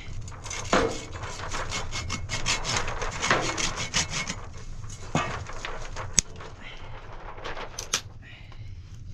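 Wood scraping and rubbing in quick, irregular strokes, with several sharp knocks; the sharpest comes about six seconds in.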